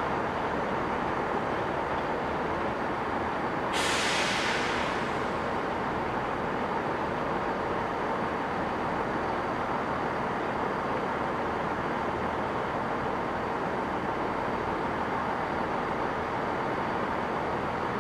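Steady rumble of diesel trains running at a station. About four seconds in, a train lets out a sharp hiss of compressed air that dies away within about a second.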